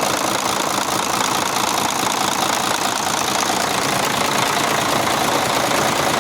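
Mercedes-Benz Actros truck diesel engine idling steadily.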